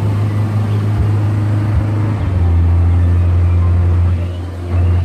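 The ride boat's engine running with a steady low drone. It gets louder about two seconds in and eases briefly near the end.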